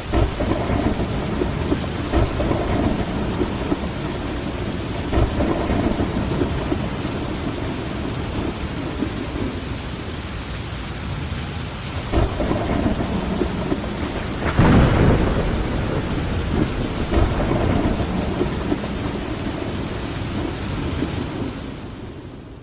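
Steady rain on window glass with thunder rolling underneath. The loudest thunder rumble comes about two-thirds of the way through, and the whole sound fades out near the end.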